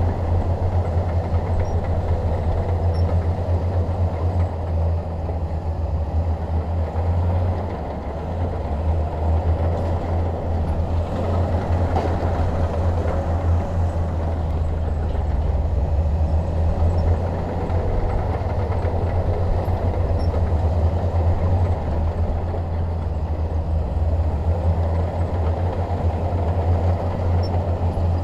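Bulldozer diesel engine running steadily under load, a loud continuous low rumble that dips briefly about a quarter of the way in.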